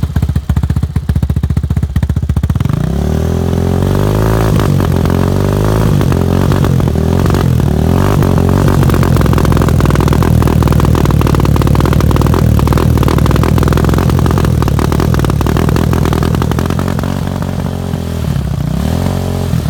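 Hawk 250 dual-sport motorcycle's single-cylinder four-stroke engine, freshly started after sitting since summer. It runs at a choppy idle, is revved up about two and a half seconds in and held at raised revs, then drops back near the end with a short blip of throttle at the close.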